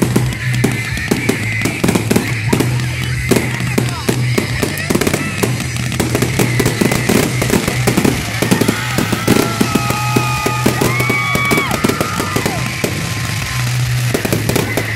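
Fireworks barrage: a rapid, continuous run of cracks and pops from many shells and crackling stars bursting at once. Several whistle-like tones rise and fall partway through.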